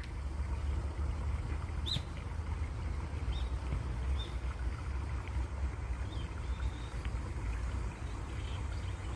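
Flowing water running steadily under a deep low rumble, with a few short bird chirps scattered through it, one sharper than the rest about two seconds in.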